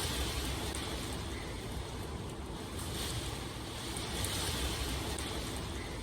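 Steady rain, an even hiss that swells and eases every second or two over a low rumble.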